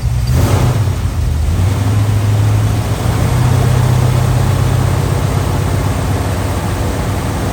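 1957 Chevrolet Bel Air engine running soon after a cold start: a brief throttle blip just after the start, then a steady idle.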